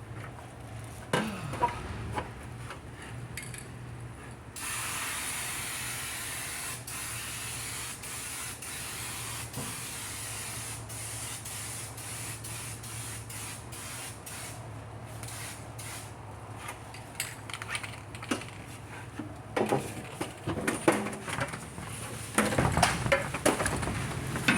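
Aerosol spray-paint can hissing steadily as paint is sprayed onto sheet metal, starting a few seconds in. Scattered clicks run through it, and knocks and clatter come near the end.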